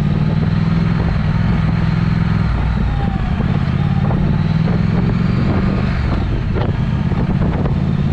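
Triumph Speed Twin's parallel-twin engine running steadily through an aftermarket Vance & Hines exhaust while riding.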